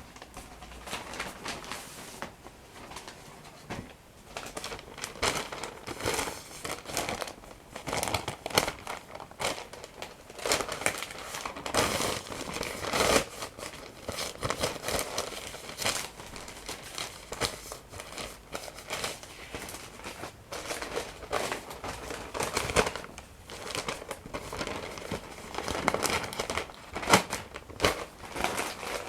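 Paper being crumpled and crinkled close to the microphone: a dense, irregular crackle that keeps going, with louder bursts here and there.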